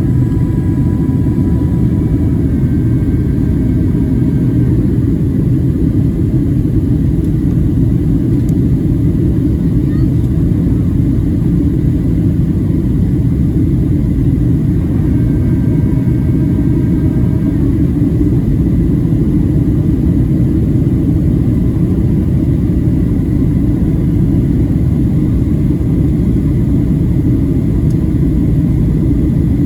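Boeing 737-700 cabin noise during descent: a steady low rumble of airflow and the CFM56 engines, with no change in level.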